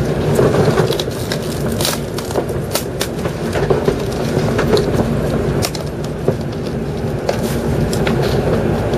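Cabin sound inside an N700 series Shinkansen car pulling slowly away from the platform at walking pace: a steady low rumble with scattered sharp clicks and ticks.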